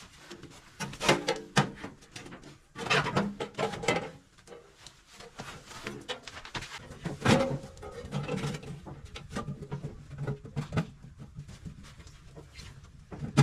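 Irregular knocks, clatters and scraping from hand work on a gas boiler, as tools and metal parts are handled.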